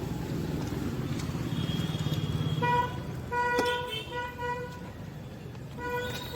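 Street traffic: an engine's low rumble, then a vehicle horn honking in several short toots from about two and a half seconds in, with a pause before more toots near the end.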